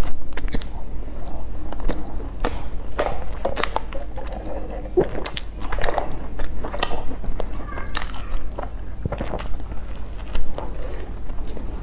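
Biting and chewing a soft brown bread bun, heard close up: irregular wet mouth clicks, smacks and small crackles as the soft crumb is chewed.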